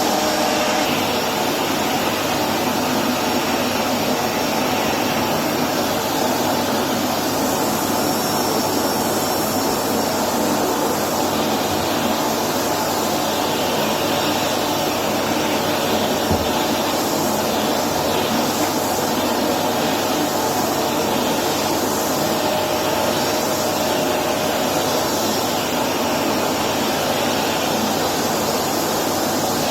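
Electrolux Precision bagless upright vacuum cleaner running steadily with a floor nozzle on its hose and wand, vacuuming hard floors. Its rushing suction shifts slightly from about twelve seconds in as the nozzle is moved about.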